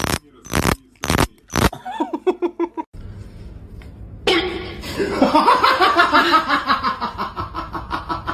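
A few short loud bursts, then from about four seconds in a person laughing hard in rapid pulses.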